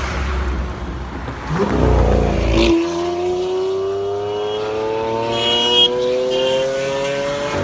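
Lamborghini supercar engine at full throttle: a deep rumble as it approaches, a sudden drop in pitch as it goes past about two and a half seconds in, then a steadily rising engine note as it accelerates away.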